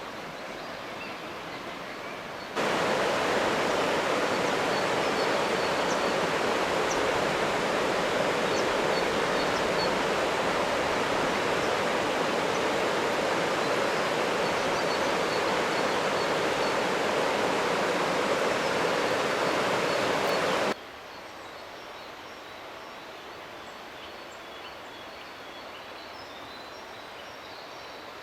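A steady rushing noise like running water starts suddenly a couple of seconds in and cuts off abruptly near the end, with faint bird chirps above it; a quieter steady rush is heard on either side.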